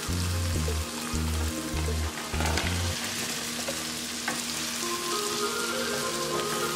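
Fried chicken pieces and chopped vegetables sizzling in hot oil in a non-stick wok as they are stirred with a spatula.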